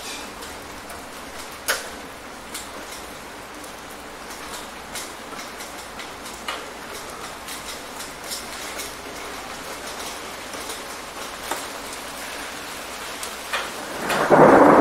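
Steady rain with scattered drops tapping on a surface; near the end a loud clap of thunder breaks in.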